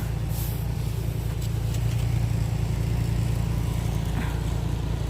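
Snow blower engine running steadily with a low drone.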